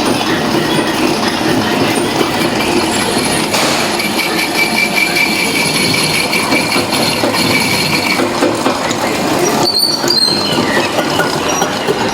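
Factory machinery running, a loud steady clattering din with faint high whines, on the floor of a wet-grinder works.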